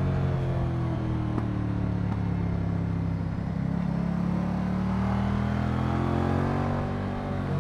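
Moto Guzzi V100 Mandello's transverse V-twin engine under way. The engine note falls for the first three seconds or so as it slows, then climbs steadily as it accelerates. It dips briefly near the end and starts rising again.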